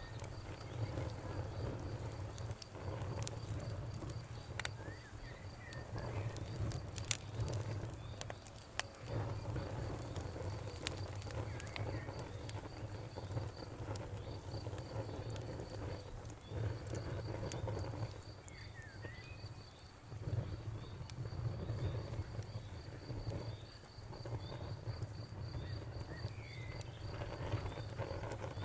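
Wood campfire burning, with scattered sharp crackles and pops over a low rumble. A cricket chirps in a fast, even pulse throughout, and a bird gives a few short chirps now and then.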